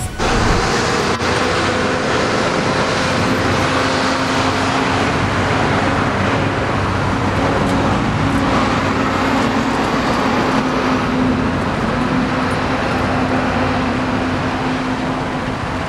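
Steady road traffic noise, with the even hum of a nearby running vehicle engine.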